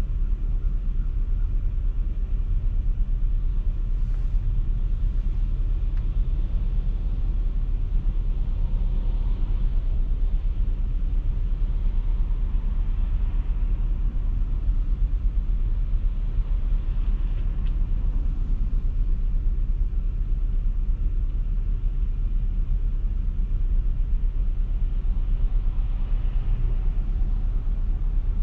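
Car driving at a steady pace: a continuous low rumble of road and engine noise, even throughout.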